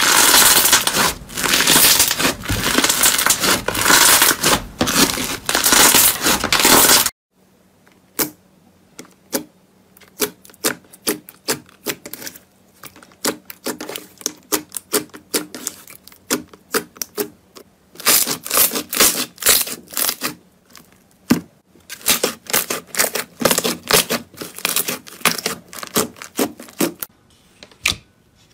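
Slime being pressed and squeezed close to the microphone, making dense crackling and crunching for about the first seven seconds. After an abrupt cut it gives sparse sharp clicks and pops, which grow into rapid clicking again later on.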